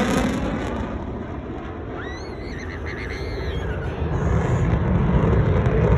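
F-35's Pratt & Whitney F135 jet engine rumbling in a turn, easing a little and then growing louder from about four seconds in. A short run of high rising chirps sounds about two seconds in.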